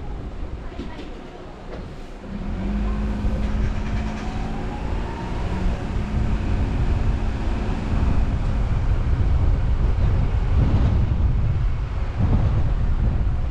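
Car driving along a road, recorded by a camera mounted on the car: a deep rumble of road and tyre noise with the engine's hum, which steadies for several seconds and rises in pitch briefly as the car gets louder.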